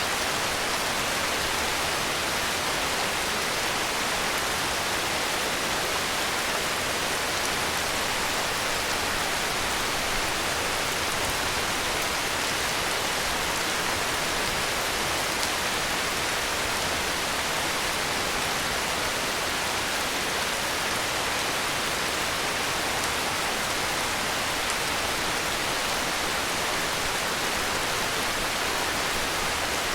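Heavy rain falling, a steady, even hiss with no thunder or other sounds.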